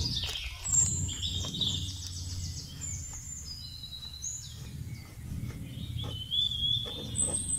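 Wild birds calling with a series of high, drawn-out whistled notes, several overlapping, over a steady low rumble.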